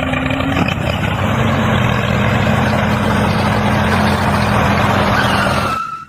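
An engine running steadily with a low, even hum; it cuts off suddenly near the end.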